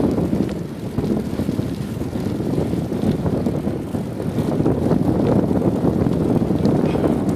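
Wind rushing over the microphone of a moving bicycle: steady low noise with no break.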